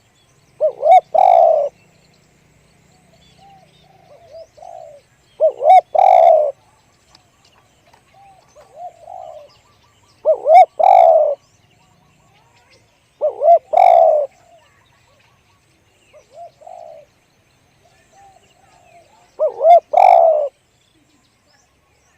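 Spotted dove cooing its deep 'one-kuk' song: five loud phrases about a second long, spaced a few seconds apart, with softer coos in between.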